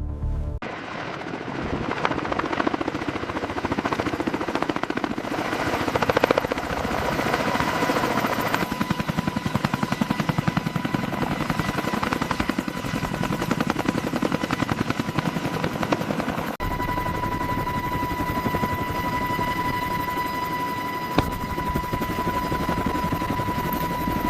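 Helicopter rotors beating in a fast, steady chop. A steady high whine joins in about two-thirds of the way through.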